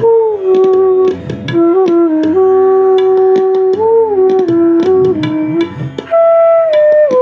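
Bansuri (Indian bamboo flute) in E playing a slow melody of long held notes with small slides and turns between them, over short percussion strokes.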